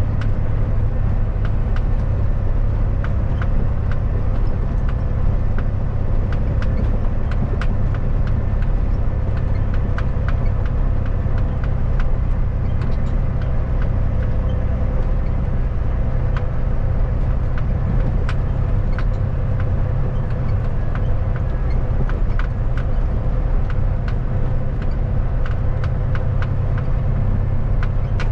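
Kenworth W900 semi truck under way: a steady low diesel engine drone with road noise, and scattered light ticks and rattles.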